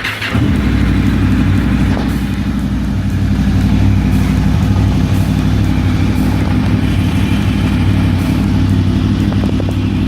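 Motor vehicle engine running steadily at an even speed, a low, constant drone that cuts in abruptly just after the start.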